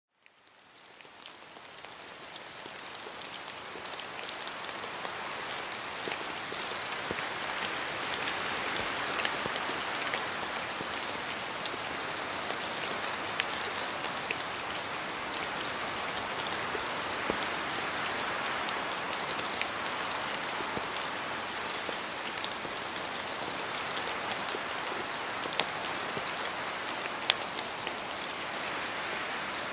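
Steady rain falling, with many individual drops tapping sharply through the hiss. It fades in over the first few seconds.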